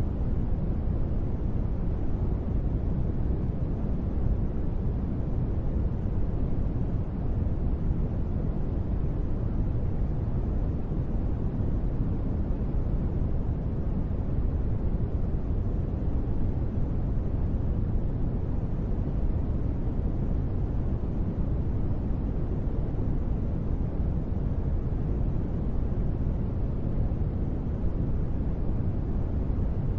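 Steady rain white noise for sleep: a deep, even rumble with most of its weight in the low end and no separate drops, tones or changes.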